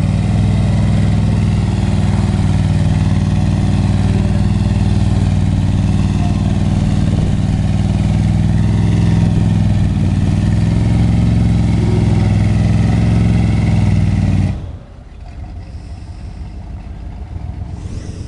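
Diesel truck engine held at high revs under load while pulling the sled, running steadily, then letting off abruptly about fourteen and a half seconds in and dropping to a lower, rougher run.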